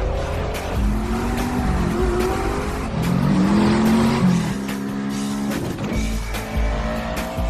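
Sports car engines accelerating hard, their pitch climbing and then dropping at each gear change, mixed with a music soundtrack.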